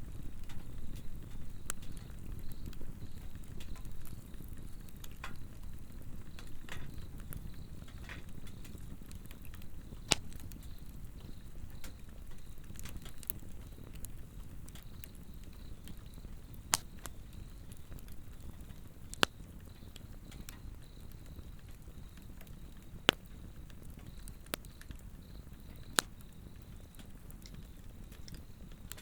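A Swedish torch log fire burning, with a steady low rush of flame and a handful of sharp wood pops spread through it. A faint, steady high-pitched trill of insects calling runs underneath.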